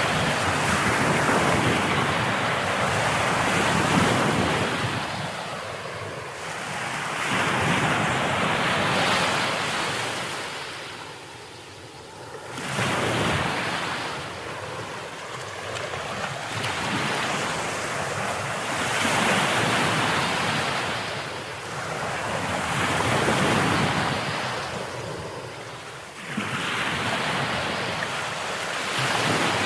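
Sea waves breaking and washing on a shore, in repeated surges that swell and fade about every four seconds, two of them crashing in abruptly.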